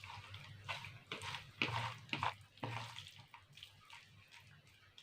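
Raw boneless chicken pieces being mixed into a wet marinade of spices and lemon juice, squelching in a string of irregular short sounds that die down after about three seconds.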